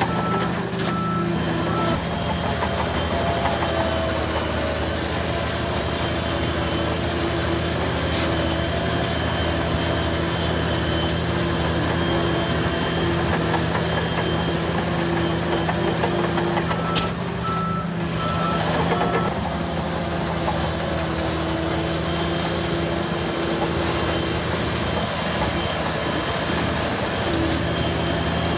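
Heavy diesel engines of working bulldozers running steadily, with a reverse alarm beeping a few times near the start and again about two-thirds of the way through.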